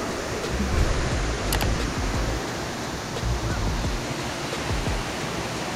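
Steady rush of a waterfall's falling water, with uneven low rumbling on the microphone.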